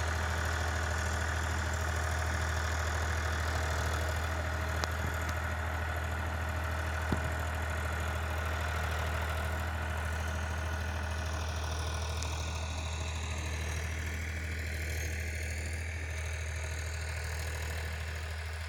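Powertrac Euro 50 tractor's three-cylinder diesel engine running steadily as it ploughs, with a deep even drone; a single sharp click about seven seconds in, and the engine growing fainter and duller over the last few seconds.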